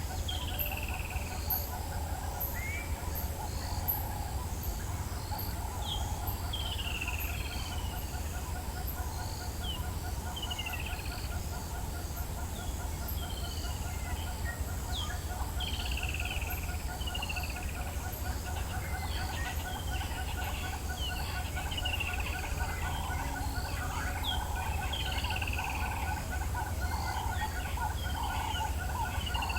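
Several wild birds calling together in the African bush at sunrise. There are repeated downward-sliding whistles every second or few, a fast rattling call that keeps going, and high ticking notes.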